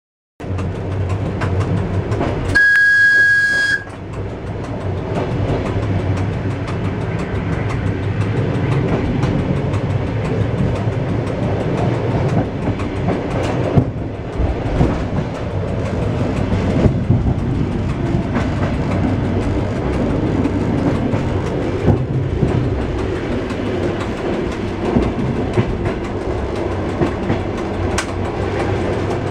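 ER2T electric commuter train running, heard from inside the driver's cab: a steady rumble of the moving train with a few clacks over the rails. About two and a half seconds in, a single high horn blast lasting about a second.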